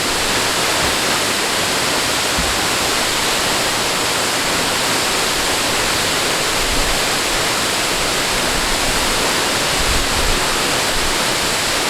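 Water rushing steadily, an even unbroken rush with no surges or pauses.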